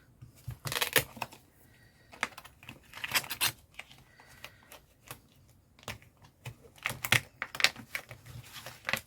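Paper and packaging being handled on a craft table: several short bursts of rustling and light clicks, with quiet gaps between.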